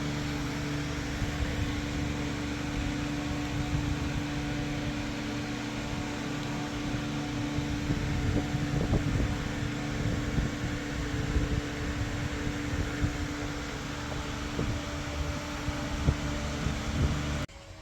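A steady machine hum with a constant low tone over an even noise, with a few faint knocks around the middle.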